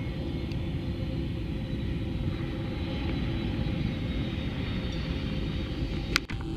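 Airbus airliner landing in heavy rain, its engines and airflow making a steady low rumble with faint steady whines, broken by one sharp click and a brief dropout near the end.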